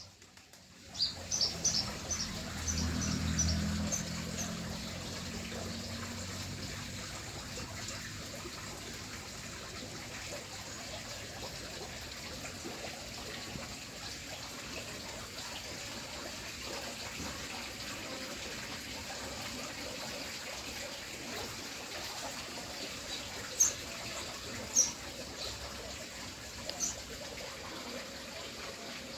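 Steady trickle of running water, with short high bird chirps about a second in and again several times near the end.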